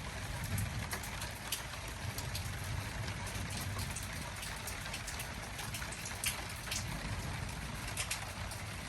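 Rain falling in a thunderstorm: a steady hiss of rain with many irregular, sharp drip ticks from drops landing close by, over a low, steady rumble.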